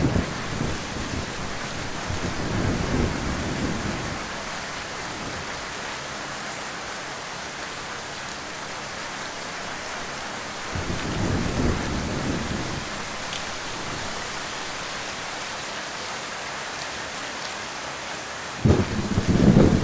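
Heavy rain falling steadily, with low rumbles of thunder rolling in three times. The loudest roll starts near the end.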